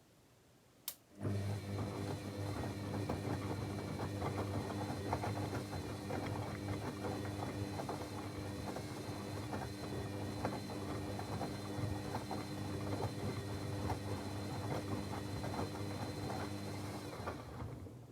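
Techwood WB 91042I washing machine: a sharp click, then the drum motor starts at once and turns the drum at a steady speed, humming with a constant clatter for about sixteen seconds before stopping near the end. The speed stays level, as in a wash-cycle tumble rather than a spin.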